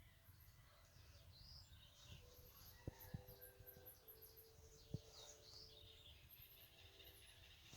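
Faint birds chirping and twittering, with three soft clicks in the middle.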